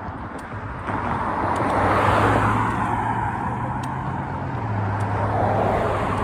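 A car drives past, its road noise swelling to a peak about two seconds in and then easing off, over a steady low engine hum.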